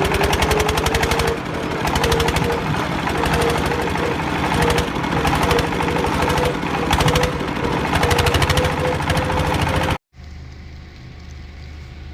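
A machine making rapid, steady hammering strokes with a steady hum under them. It cuts off suddenly about ten seconds in, and a quieter steady rumble follows.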